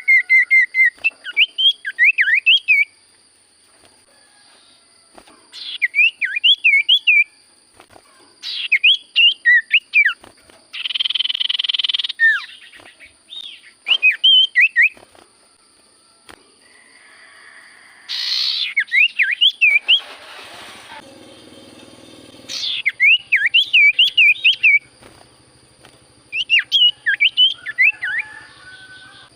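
Iora (cipoh) singing repeated phrases of quick rising-and-falling whistled notes, each phrase lasting a second or two with short pauses between, with a harsher rasping burst about eleven seconds in. A faint steady high-pitched whine runs underneath.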